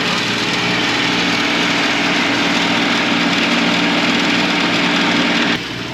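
A small engine running steadily and loud, with an even drone, cutting off abruptly about five and a half seconds in.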